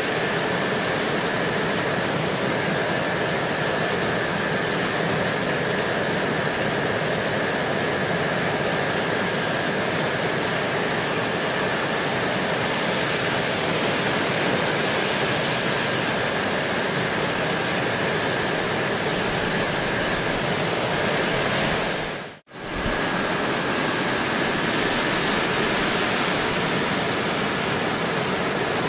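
Steady rain falling, an even hiss of drops with a faint steady high tone underneath. The sound cuts out for a moment about three-quarters of the way through, then resumes.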